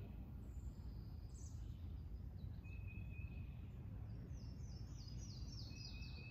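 Wild birds singing: a thin high whistle held briefly twice, and from about four seconds in a quick run of about eight falling notes. Beneath them runs a steady low background rumble.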